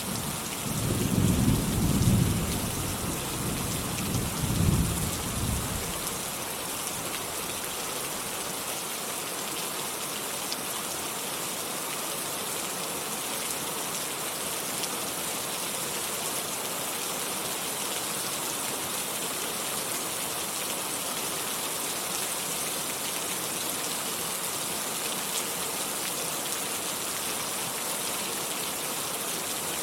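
Steady rainfall, with a roll of thunder in the first few seconds that rumbles twice and fades out by about six seconds in.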